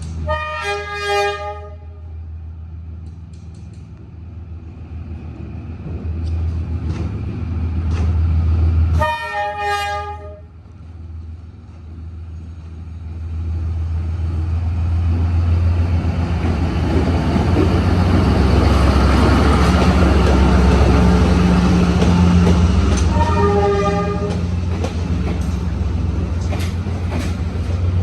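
Diesel-hauled passenger train departing: the locomotive horn sounds three short blasts, near the start, about nine seconds in and about twenty-three seconds in, over the low rumble of the locomotive's engine. The rumble grows loud from about thirteen seconds in, peaking around twenty seconds as the train comes close.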